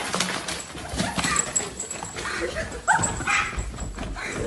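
A pet's short whimpering calls, several in a row, the clearest near three seconds in, over light rustling.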